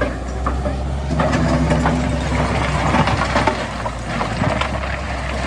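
Heavy diesel construction machinery running steadily, with scattered knocks and clanks over the engine.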